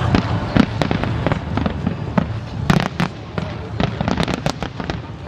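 Fireworks display bursting: a rapid, irregular series of sharp bangs and crackles over a steady low rumble.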